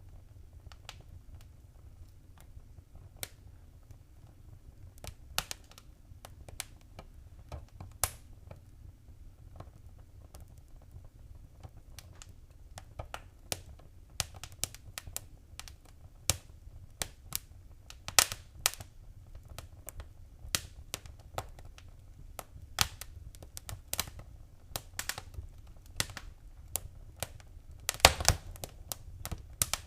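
Wood fire crackling in a fireplace: irregular sharp pops and snaps over a low steady rumble. The pops grow busier about halfway through, with a loud cluster of them near the end.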